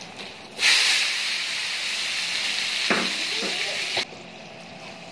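Sliced tomatoes, onion and green chillies hitting the hot fat on a large flat pan of frying chappal kababs: a loud sizzle that starts suddenly about half a second in and cuts off just after four seconds.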